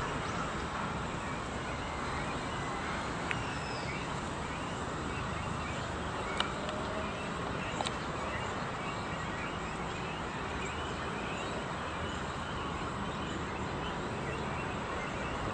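Steady outdoor city background: a constant hum of distant traffic, with a few faint, short bird chirps and two sharp clicks about six and eight seconds in.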